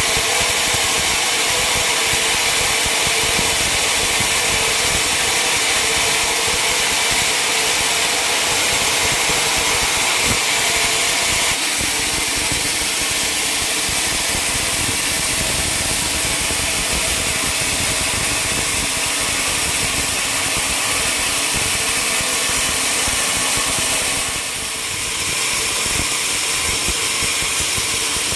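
Sawmill machinery running steadily, with a short dip in level about 24 seconds in.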